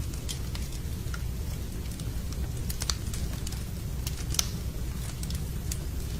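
Wood campfire crackling, with irregular sharp pops and snaps, the loudest a little past halfway, over a steady low rumble.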